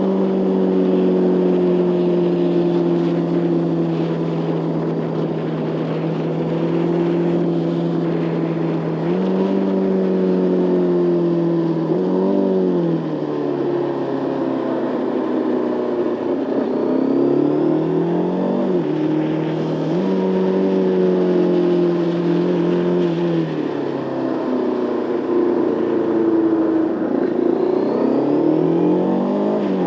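Motorcycle engine under way, holding a steady pitch for long stretches, with its revs rising and falling several times, around a quarter of the way in, near the middle and near the end, as the rider works the throttle and gears.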